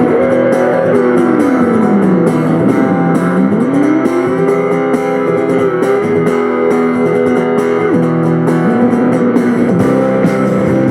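Loud rock band music: electric guitar playing held chords while one guitar note slides slowly down and back up, over bass.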